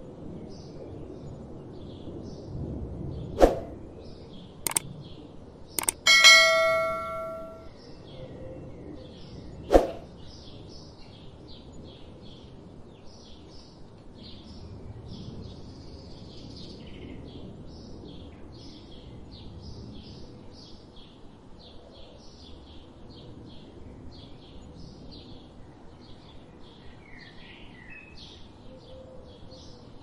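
Small birds chirping in short, high notes repeated about twice a second. In the first ten seconds, a few sharp knocks and one loud metallic ringing clang that dies away over about a second and a half.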